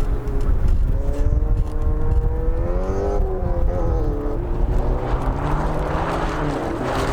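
A rallycross car's engine revving on a dirt course, its pitch rising and falling repeatedly as it accelerates and shifts. A strong low rumble runs underneath, and a rough, noisy hiss builds over the last couple of seconds.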